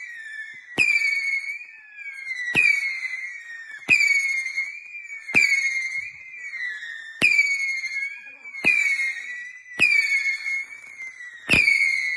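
Consumer firework going off in a regular series of sharp pops, about one every one and a half seconds, eight in all. Each pop sets off a high, wavering whistle that dips in pitch and carries on until the next shot.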